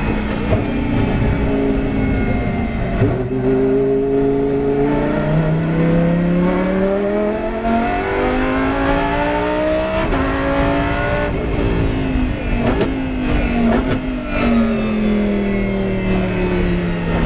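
Lamborghini Huracán GT race car's 5.2-litre V10 engine running on track: its note climbs steadily for several seconds, peaks about ten seconds in, then falls back slowly, with a few sharp cracks partway through the fall.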